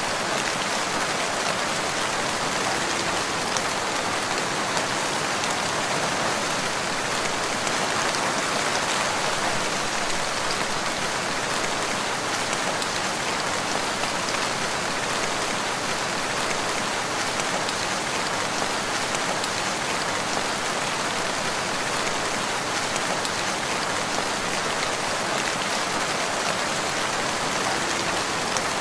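Steady rain falling, the even patter of many drops with no thunder and no change in strength.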